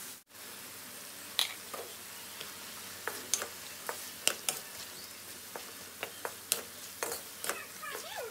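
Diced chicken and vegetables sizzling in oil in a metal wok while being stirred. From about a second and a half in, the utensil makes repeated sharp clicks and scrapes against the pan.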